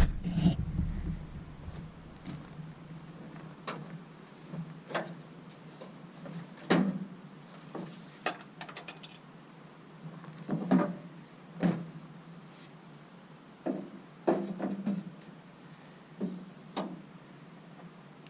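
Handling noises: about a dozen short, scattered knocks and clicks, spread unevenly over a faint steady hum.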